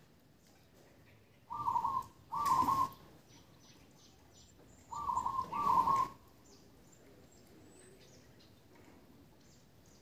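Bird calling: two pairs of short, clear notes, the first pair about a second and a half in and the second about five seconds in, over a faint background.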